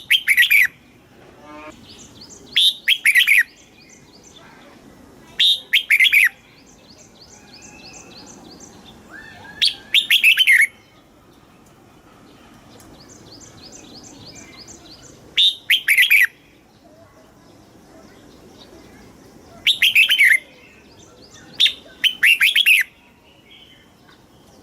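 Red-whiskered bulbul singing: seven short, loud phrases of a few clear whistled notes, each under a second, repeated every two to five seconds. Fainter rapid chirping runs between the phrases.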